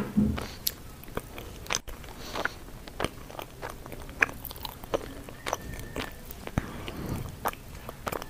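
Close-miked chewing and biting of a mouthful of sweet potato leaves, with many short wet clicks and smacks from the mouth and a brief low thud just after the start.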